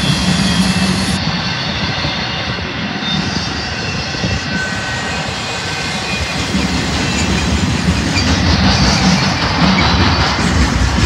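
Intermodal freight train's trailer-carrying flatcars rolling past on the rails: a steady rumble of steel wheels on track that grows louder in the second half.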